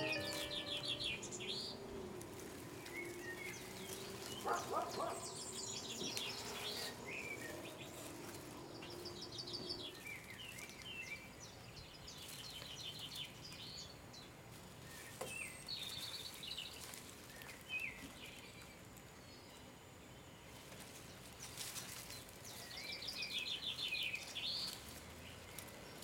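Songbirds singing faintly, short trills and chirps recurring every few seconds, with a faint low steady hum for about the first ten seconds.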